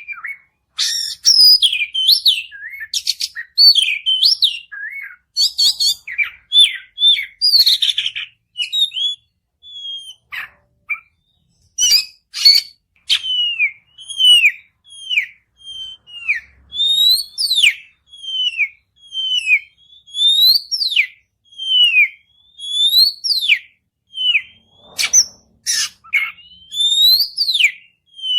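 Oriental magpie-robin (kacer) singing: a varied run of fast warbled and chattering phrases for the first eight seconds or so, then a long series of single whistles, each falling in pitch, about one a second.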